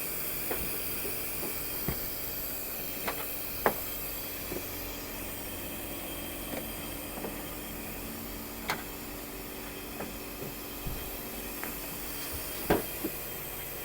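A pickup-bed tarp cover being undone, with a handful of sharp clicks and knocks from its bungee hooks and fittings spread over several seconds, over a steady hiss.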